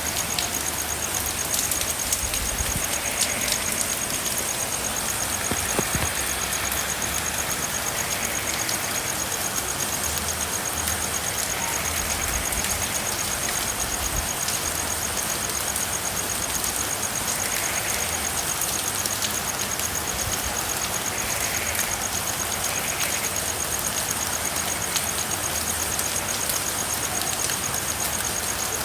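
Steady rain falling. Through it runs a continuous high, rapid pulsing trill, and short soft frog calls come every few seconds.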